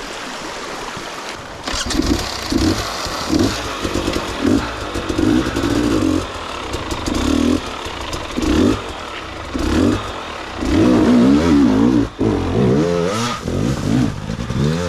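Dirt bike engine revved in short, repeated throttle bursts about once a second, as on a slow technical climb. Near the end it goes into a longer stretch of quick up-and-down revving.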